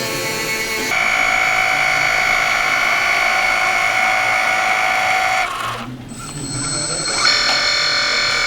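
Steady, high-pitched electronic tones held for several seconds at a time, changing pitch about a second in and twice more in the second half, with a brief drop in level just past the middle.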